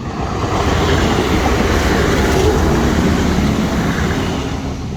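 A train passing close by: its noise swells over about the first second, holds loud through the middle and dies away near the end.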